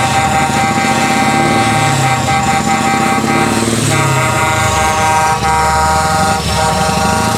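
Truck air horns blowing a long, steady chord that shifts pitch about halfway, over the low rumbling of a diesel truck engine.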